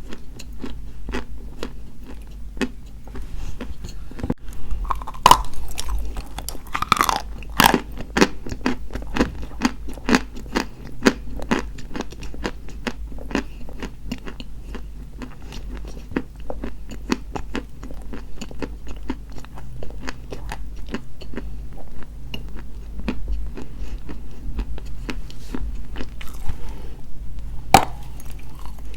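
Dry white chalk being bitten and chewed: a dense, continuous run of crisp crunches, with a few louder bites about five and seven seconds in and again near the end.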